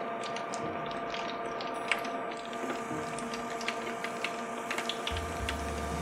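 Close-miked wet eating sounds: chewing and lip-smacking on sauce-covered seafood, heard as a string of small wet clicks. Low steady notes come in about five seconds in.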